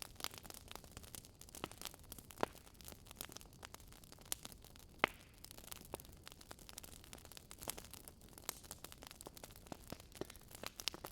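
Wood fire burning in a fireplace, crackling with irregular sharp pops over a low hiss, the loudest pop about five seconds in.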